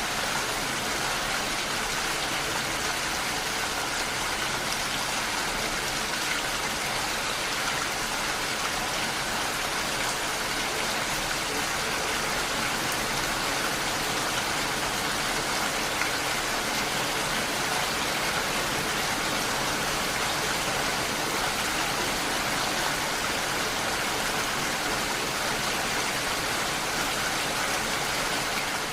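Heavy rain falling steadily, a constant even hiss of drops with no distinct events.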